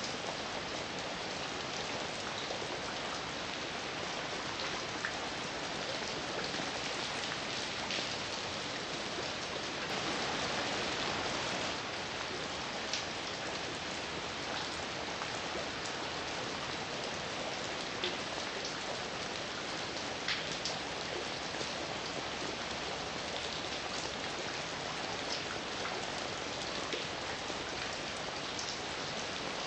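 Steady heavy rain falling, an even hiss with scattered sharper drops striking close by, swelling slightly louder for a couple of seconds about ten seconds in.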